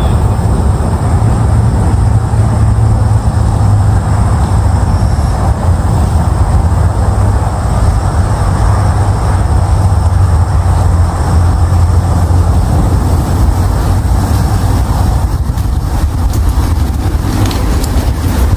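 Steady, loud rumble of water rushing through the dam spillway.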